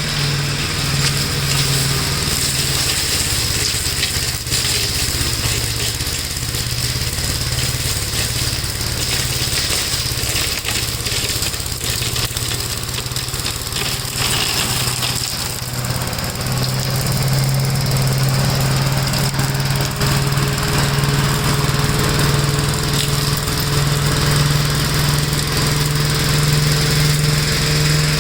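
1969 Gravely L walk-behind tractor's engine running steadily, its low note getting a little stronger about two-thirds of the way through.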